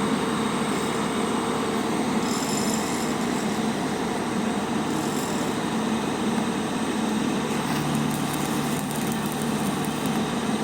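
Arc tack welding on steel plates: a steady hiss and crackle over the constant hum of a running engine.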